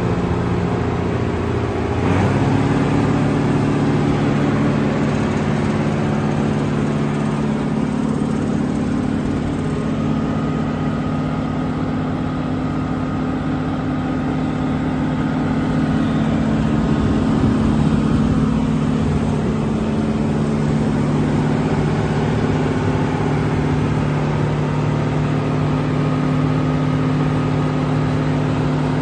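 Diesel engine of a Volvo BM 6x6 articulated dump truck running steadily. The engine speed steps up about two seconds in, then eases slightly around eighteen seconds.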